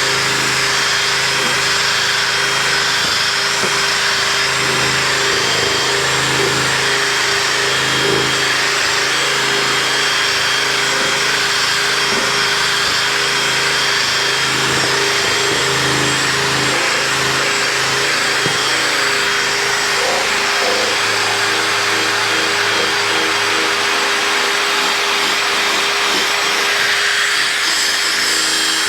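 Electric drill spinning a polishing pad against a plastic motorcycle windshield, running steadily under load as the cloudy plastic is polished with a headlight restore kit. Its tone shifts a little about two-thirds of the way through.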